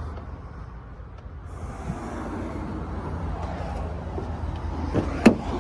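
Low, steady background rumble with a single sharp knock about five seconds in.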